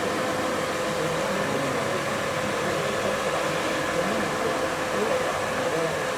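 Steady mechanical drone with a constant hum, and faint voices in the background.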